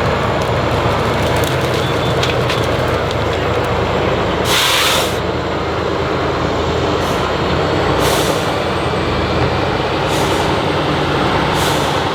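Heavy off-road trial truck's diesel engine running steadily, with five short hisses of released air, the longest and loudest about four and a half seconds in.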